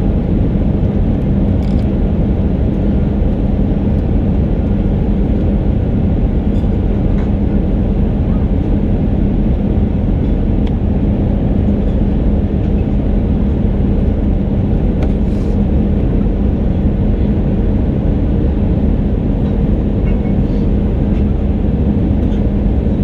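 Airbus A319 cabin noise in flight: a steady rumble of engines and airflow heard from inside the cabin, with a steady low hum running through it.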